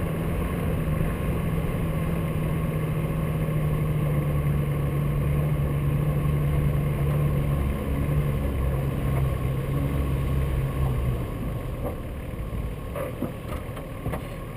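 Off-road SUV's engine running steadily under load while driving across snow; its note steps down about eight seconds in and drops to a quieter level near the end.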